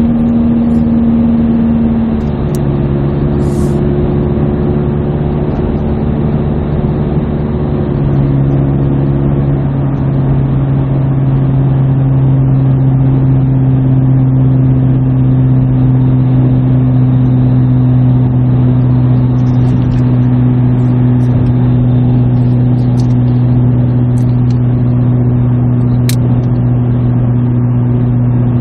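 Exhaust drone of a 2017 Subaru Forester's naturally aspirated 2.5-litre flat-four with a muffler delete, heard inside the cabin while cruising at about 70 mph and 2,500–3,000 rpm. A loud, steady low hum over a rushing noise, its pitch stepping slightly about two and again about eight seconds in.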